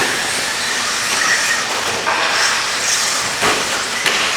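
Radio-controlled stadium trucks racing around a track: a steady high hiss of motors and tyres with faint shifting whines, and a couple of brief knocks near the end.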